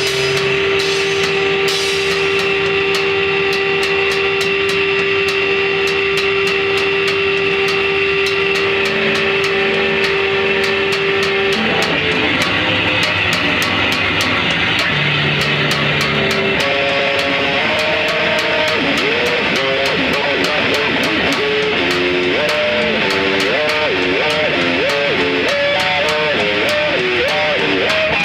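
Loud distorted rock music played live, led by electric guitar: one long held note for about the first eleven seconds, then wavering, bending notes, over a steady beat of sharp drum hits.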